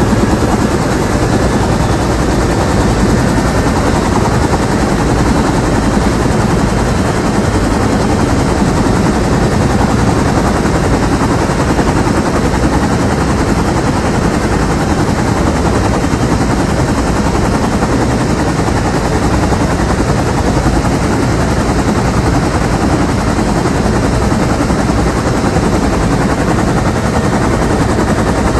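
Bell UH-1 Huey helicopter heard from inside the cabin: loud, steady noise of its turbine engine and the rapid, even beat of its two-bladed main rotor.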